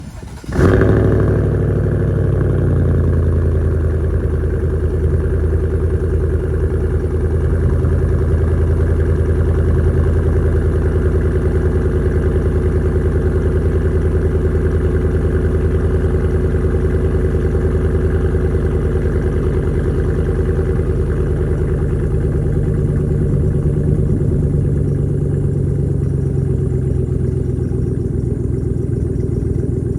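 2023 GMC Sierra 1500's 5.3 L L84 V8 cold-starting through an aftermarket Borla exhaust with a 4-inch pipe and 5-inch tip: it fires with a loud burst about half a second in and settles within a couple of seconds into a steady idle.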